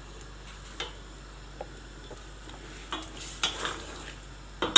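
A spoon stirring a pot of bean stew, with scattered light clinks, a run of scraping and clinking about three seconds in, and a sharper knock at the end.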